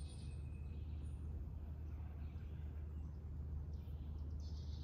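Birds singing in the trees, a high chirping trill at the start and again near the end, over a steady low outdoor rumble.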